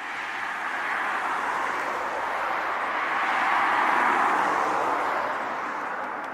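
A vehicle passing by: a rushing noise that swells to a peak about four seconds in and then fades away.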